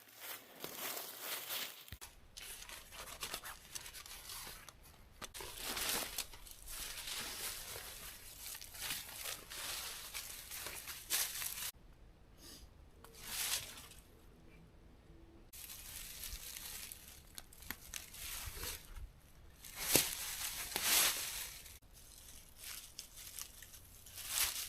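Rustling and crinkling handling noises, repeated swishes of material being moved about, with a quieter stretch midway and two sharp knocks close together near the end.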